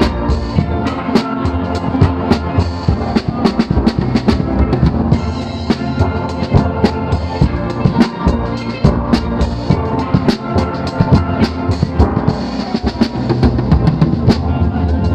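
Steel pan band playing an upbeat tune with a drum kit keeping a steady beat.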